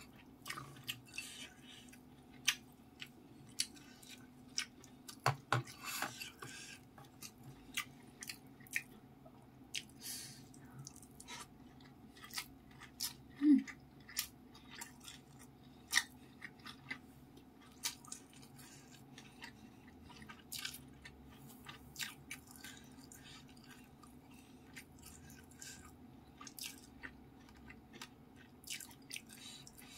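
Close-miked eating sounds: a person chewing the last mouthfuls of a rice meal eaten by hand, with many short wet mouth clicks and smacks. About halfway through there is one brief, louder low throat sound.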